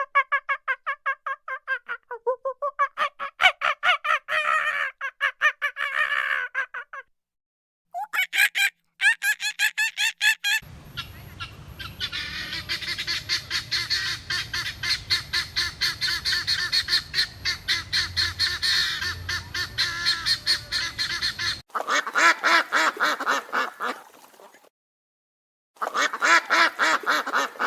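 Waterfowl calling in fast runs of repeated honking calls, several separate takes separated by brief silences.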